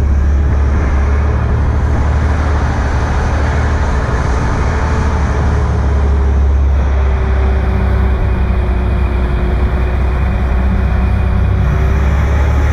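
Motorboat underway: a steady, loud engine drone mixed with rushing wind and water noise.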